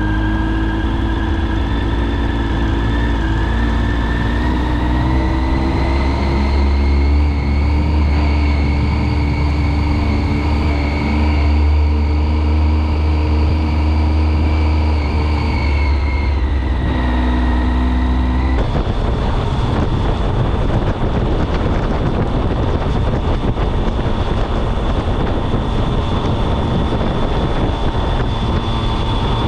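Triumph Speed Triple's 1050 cc three-cylinder engine under way on the road, its pitch rising over the first several seconds, holding, then dropping back. About two-thirds of the way in, the sound changes suddenly to a steady rushing noise with a thin high whine.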